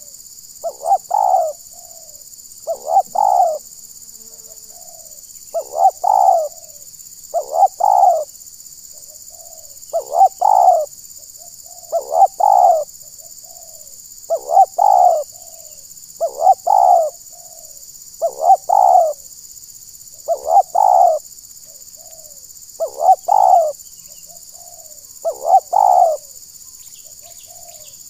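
Spotted dove cooing over and over, a phrase of a few short notes ending in a longer coo about every two seconds. A steady high hiss runs behind it.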